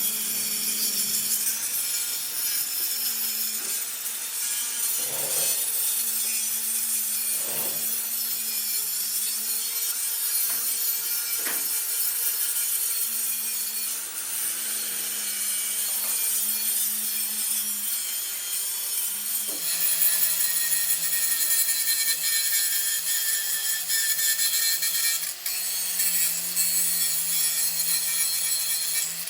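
A motor-driven metalworking tool cutting or grinding metal: a steady scraping hiss over a motor hum, with a few knocks. About two-thirds of the way through, the hum drops in pitch and the hiss gets brighter.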